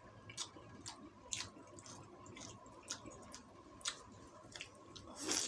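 Close-up chewing of nasi uduk with fried chicken and tofu: quiet wet mouth sounds and irregular small clicks, with a louder burst of clicks near the end.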